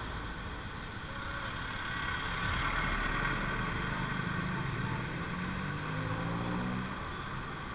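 Road traffic noise with a vehicle engine running close by; about midway the engine gets louder and its pitch climbs as it speeds up, then it fades near the end.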